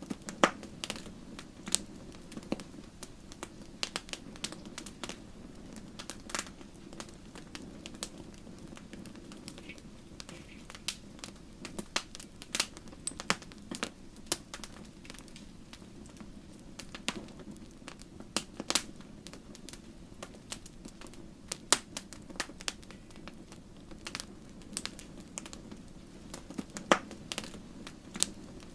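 Wood fire crackling in a fireplace: irregular sharp pops and snaps from the burning logs, sometimes several close together, with a few louder cracks, over a steady low background.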